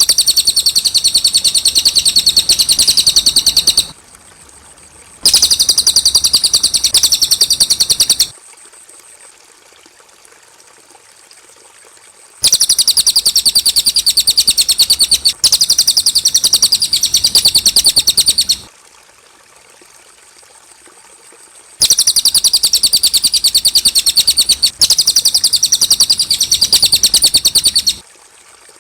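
Cililin bird singing: four bouts of rapid, high, evenly repeated trilling notes, each lasting about three to six seconds, with pauses of a few seconds between them.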